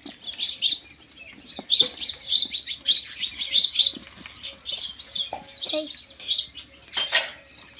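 Small birds chirping busily, a rapid run of short, high calls one after another, with a few sharp clicks among them.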